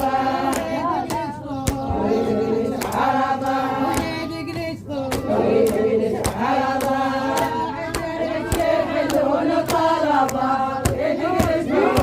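Iraqi 'arada' chant: voices chanting a rhythmic verse in unison over a sharp percussive beat about twice a second.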